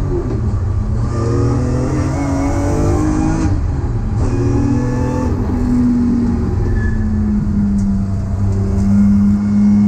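BMW S54 3.2-litre straight-six in an E30, heard from inside the cabin under hard acceleration: the revs climb, drop at a gear change about three and a half seconds in, and climb again. After that the engine settles to a steadier, slowly falling drone.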